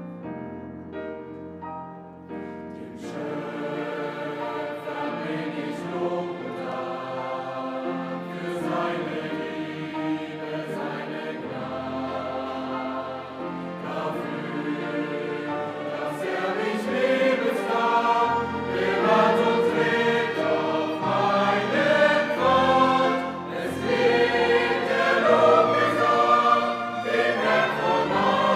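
Background music with a choir singing over orchestral accompaniment, starting softly and swelling louder in the second half.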